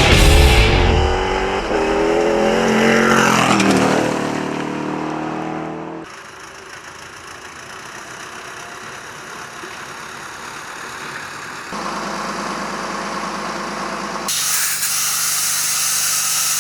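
Cross-country rally cars' engines revving and running, the pitch rising and falling over the first few seconds, then steadier engine sound in several short shots that change abruptly.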